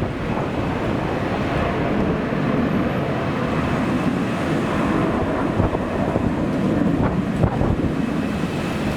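Strong wind blowing across the microphone: a steady low rushing noise.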